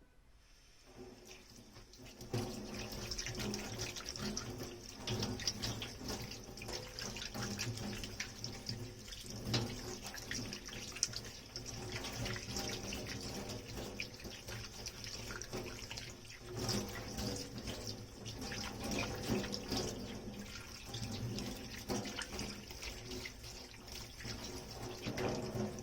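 Tap water running into a kitchen sink, starting about two seconds in, with occasional light knocks from dishes being handled under the stream.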